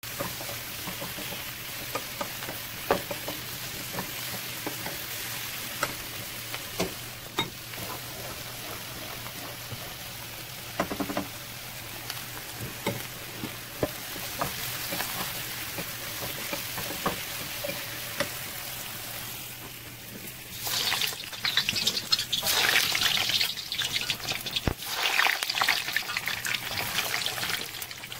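Vegetables stir-frying in a nonstick pan: a low, steady sizzle with scattered clicks and taps of a wooden utensil against the pan. About twenty seconds in it changes to a much louder, uneven sizzling of battered food deep-frying in a wok of hot oil.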